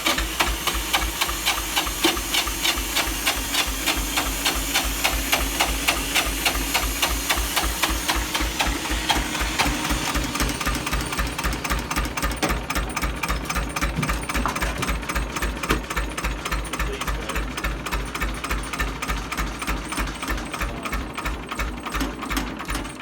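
An old Jiangxi 18 hp tractor's JT engine turning over on a start attempt, with a steady knocking beat about five times a second. It stops near the end without staying running.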